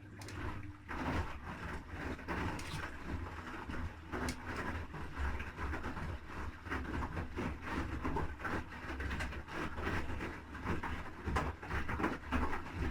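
Haier I-Pro Series 7 front-loading washing machine tumbling its load mid-cycle: a low motor hum under the swish and slosh of wet laundry and water, with irregular small knocks. The drum starts turning as the sound begins and stops after about thirteen seconds, one of the turn-and-pause spells of a wash cycle.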